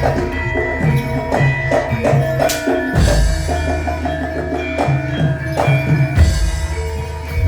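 Traditional Javanese percussion music for an imblig horse dance: drum strokes in a steady rhythm over held, ringing gong and metal-chime tones.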